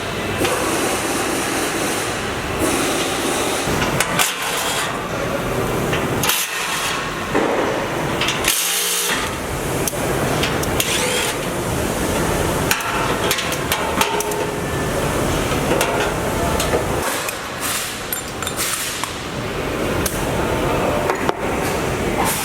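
Auto repair shop work sounds: metal tools clanking and knocking against a steady background of shop noise, broken by short drop-outs about six and a half and nine seconds in.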